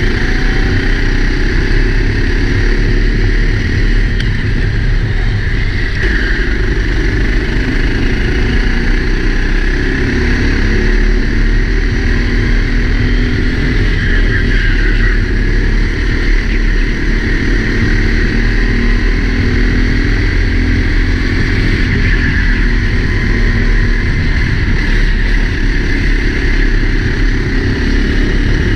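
Four-stroke Sodi kart engine running at racing speed, its note rising and falling as it accelerates and slows, heard over heavy low rumble from the helmet-mounted camera.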